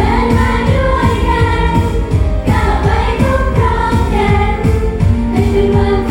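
Thai idol pop song performed live: female singing over a loud backing track with a steady beat, recorded on a phone in the audience.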